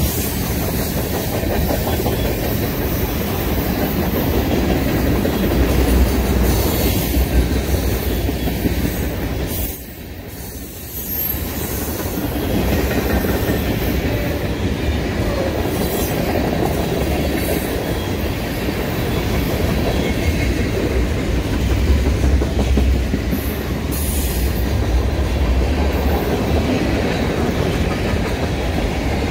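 Freight train of loaded tank cars rolling past close by: a steady rumble and clatter of steel wheels on the rails. The sound dips briefly about ten seconds in.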